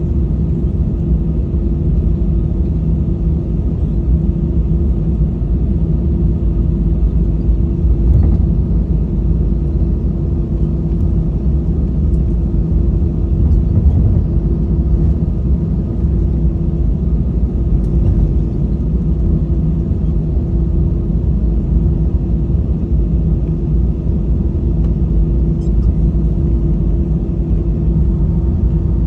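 Steady cabin noise inside an Airbus A320: a low rumble with an even engine hum.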